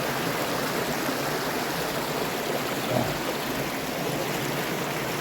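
Mountain creek running over rocks, a steady rushing of water. One brief louder sound about three seconds in.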